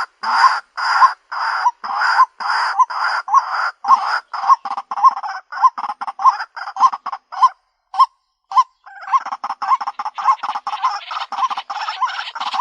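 White-breasted waterhen giving its repeated harsh croaking call, a couple of calls a second at first and quickening. It breaks off briefly about eight seconds in, then resumes faster and denser.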